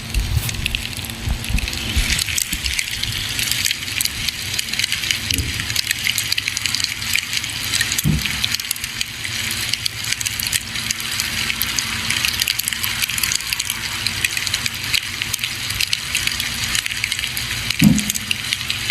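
Campfire crackling steadily, with dense small pops and snaps over a hiss, and a couple of dull low thuds, one about halfway through and one near the end.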